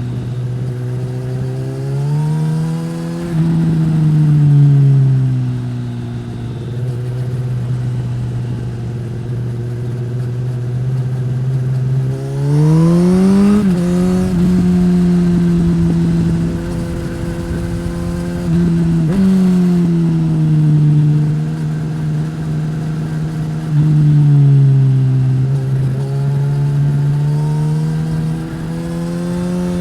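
2015 Suzuki GSX-S1000's inline-four engine running through a Yoshimura R-11 slip-on exhaust on the move. The engine note rises and falls several times with the throttle, with the sharpest climb about twelve seconds in.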